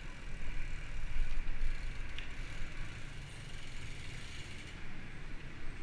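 Outdoor ride noise: a low wind rumble on the microphone over a steady hiss of road or tyre noise, with a faint click about two seconds in.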